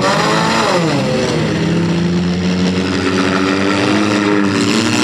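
Demolition derby car engine revving; its pitch falls over the first second or so and then holds at a steady, lower note.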